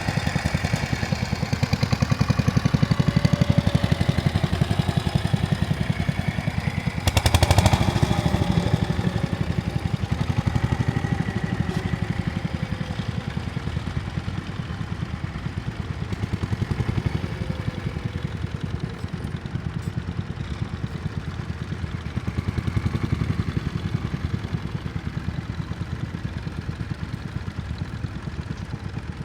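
Tractor engine running with a steady, rapid firing beat, swelling louder for a moment about seven seconds in.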